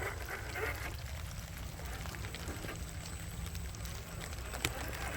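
Scale RC crawler's small electric motor drive running at low crawl speed, a steady low hum, with a little water being churned by the tyres on a wet course and a sharp click near the end.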